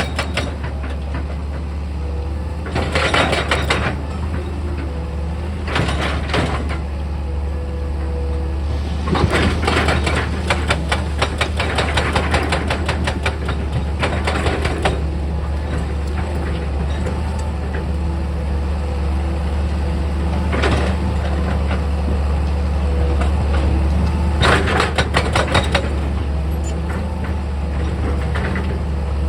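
Heavy excavator's diesel engine running steadily, with repeated bursts of rapid rattling and crunching as it works; the longest stretch of rattling comes about a third of the way in.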